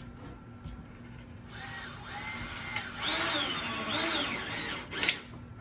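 Cordless drill driving a screw into a wooden closet shelf support. The motor whine speeds up and slows twice over about three and a half seconds as the trigger is worked, and ends with a sharp click about five seconds in.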